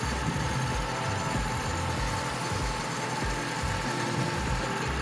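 Mazda B2200 mini truck's four-cylinder engine running steadily, held a little above idle for an intake cleaning treatment.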